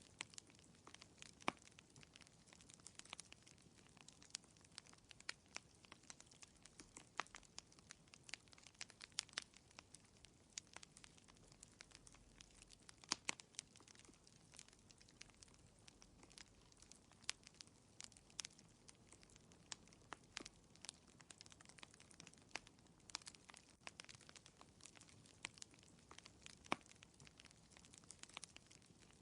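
Wood fire in a fireplace crackling softly, with irregular small pops and snaps over a faint hiss.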